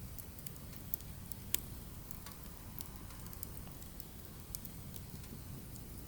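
Firewood burning, crackling with scattered sharp pops over a steady low rumble; two louder pops come about one and one and a half seconds in.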